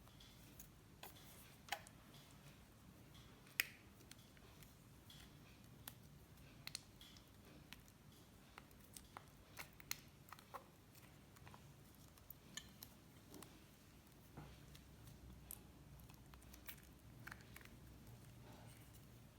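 Slime being handled and pressed, giving off irregular sharp clicks and pops, roughly one or two a second, some louder than others, over faint room hum.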